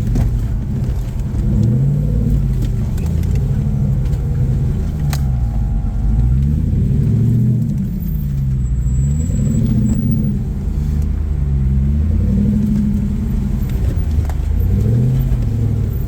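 Off-road rock-crawling rig's engine revving up and down repeatedly under throttle, rising and falling in pitch every second or two as it climbs over rocks.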